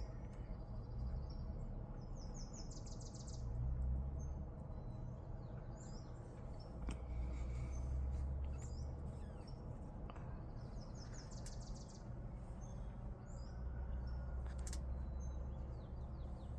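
Small birds chirping and twittering, with two quick trilled phrases, over a steady low outdoor rumble that swells and fades several times.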